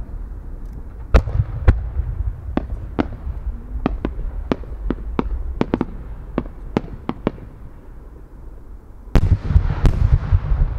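Fireworks: a string of sharp cracks for several seconds from the small effects on two climbing shells, then about nine seconds in the heavy boom of two 10-inch (No. 10) aerial shells bursting together, followed by a rumbling echo.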